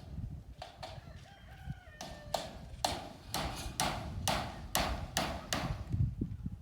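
A rooster crows once about half a second in, then hammer blows ring out in a steady series, about two a second.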